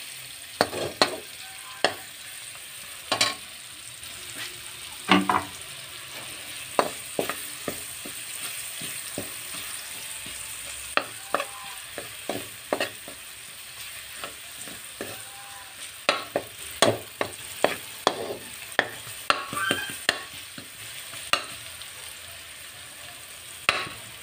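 Minced garlic and onion sizzling in oil in a metal wok over a lowered flame, with a metal spatula stirring and scraping them. Sharp, irregular clacks of the spatula on the pan ride over the steady sizzle.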